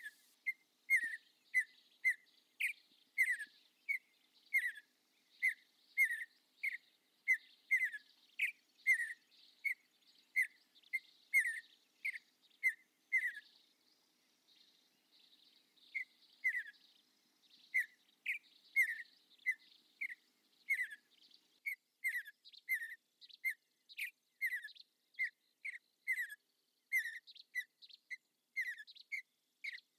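A bird repeating a short chirp about twice a second, with a break of about two seconds near the middle, and fainter high ticks above it.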